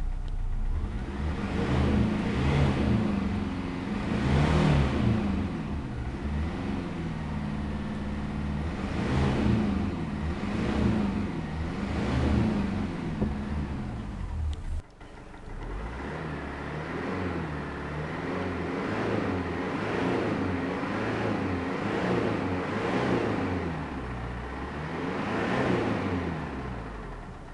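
Mazda B2500's 2.5-litre four-cylinder turbo diesel revved over and over from idle, its pitch climbing and falling with each blip of the throttle. There is a brief break about halfway through.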